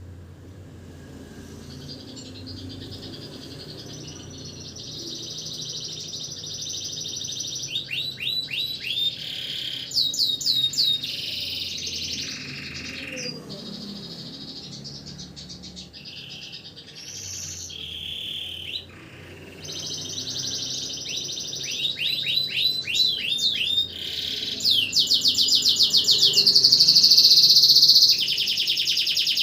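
Domestic canary singing a long, unbroken song of fast trills and rolling phrases, getting louder toward the end.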